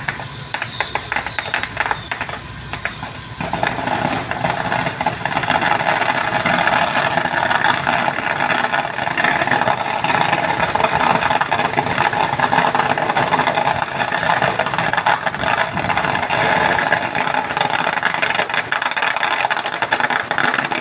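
A squid-fishing boat's engine running with a steady rattling clatter, getting louder about three and a half seconds in and then holding.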